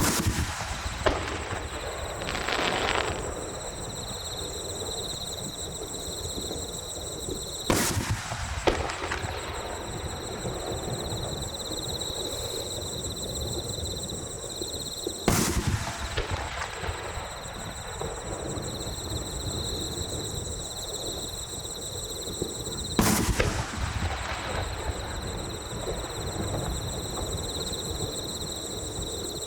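Fireworks display: aerial shells bursting with sharp booms about every seven or eight seconds, four in all. The first is followed by a couple of seconds of crackle.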